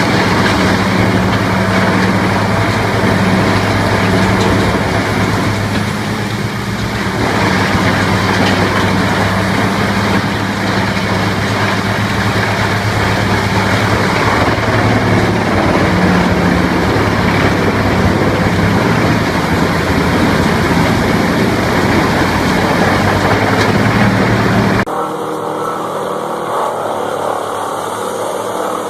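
A wood-processing machine's engine running steadily with a low hum, under a dense rough noise of the machine at work. About 25 seconds in it cuts abruptly to a different, quieter machine sound.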